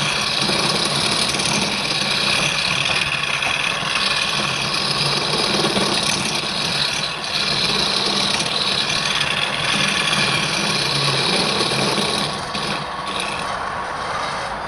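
Wood lathe running, with a turning tool cutting or working the spinning wood: a steady machine hum under a continuous scraping hiss that eases off a little near the end.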